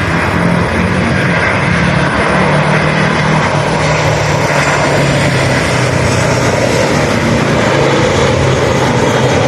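Airliner passing close by: loud, steady engine noise with a low hum that drifts slowly down in pitch.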